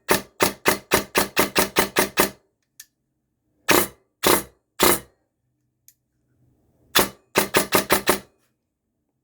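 King Arms Black Rain Ordnance airsoft electric rifle firing on an 11.1 V battery: a string of about ten shots, three single shots, then a second string of about seven.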